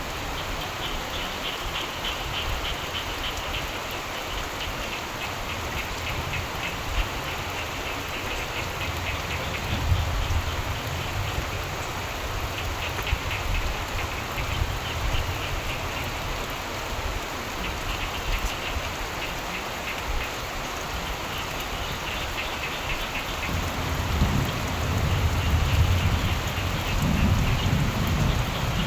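Steady rain falling, with frogs calling in rapid pulsing trills that come and go. Low rumbles of distant thunder swell in the background, strongest near the end.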